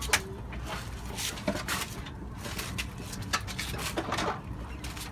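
Used sawdust litter and chicken manure being scraped off a broiler house floor, in a run of irregular short scrapes and knocks.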